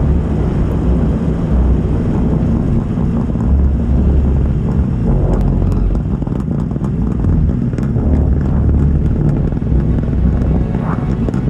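Engine of an Opel Astra ice-racing car running steadily, picked up by a microphone mounted on the car's side, with scattered light clicks.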